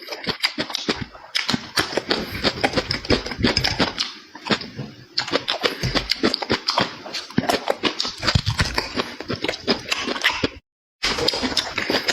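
Close-miked mouth eating pork: a quick, continuous run of wet chewing and lip-smacking clicks. The sound cuts out for a moment near the end, then the chewing resumes.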